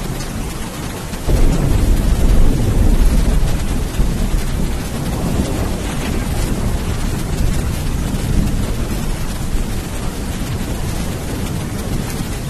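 Steady heavy rain with a roll of thunder. The thunder comes in sharply about a second in and rumbles low for a few seconds before fading back under the rain.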